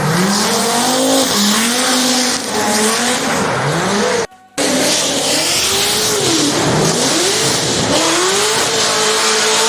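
Drift car at full throttle, its engine pitch rising and falling repeatedly as it revs, over the hiss and squeal of spinning, sliding tyres. The sound cuts out briefly about four and a half seconds in. Near the end the engine holds a steady pitch.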